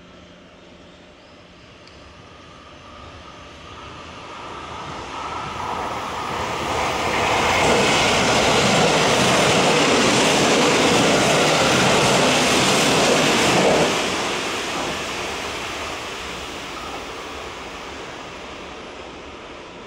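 Electric commuter train approaching, passing close by with a loud rush of wheel, rail and motor noise, then fading away down the line. It is loudest for about six seconds in the middle and drops off sharply as the last car goes by.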